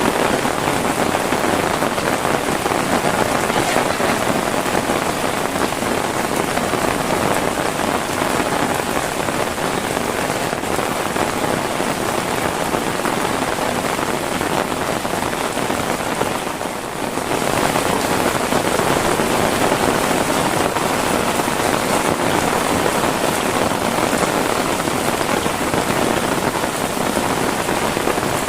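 Heavy rain falling steadily, a dense even hiss of drops on surfaces, with a brief dip in level about two-thirds of the way through.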